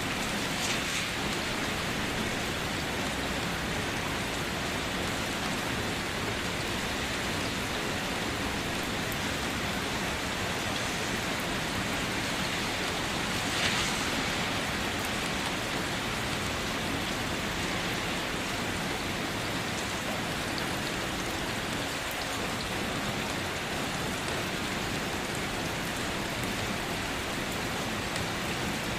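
Steady rain falling, an even hiss of drops on surfaces, with a brief louder spatter about halfway through.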